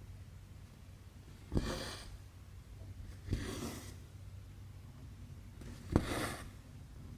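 Needle and thread pulled through stiff cross-stitch fabric three times, each a small pop as the needle goes through followed by a short swish of thread drawn after it.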